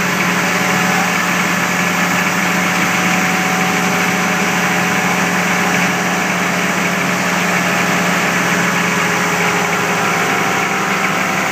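M-1031 contact truck's 6.2 L diesel V8 running steadily, driving its 10 kW PTO generator under the load of a small air compressor plugged into it.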